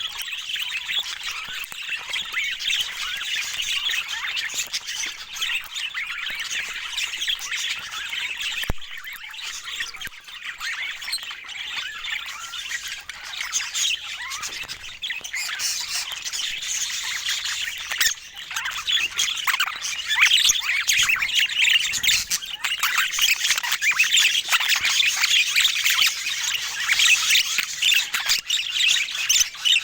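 Budgerigar chatter: a continuous stream of squawks, chirps and warbles, growing louder about two-thirds of the way through.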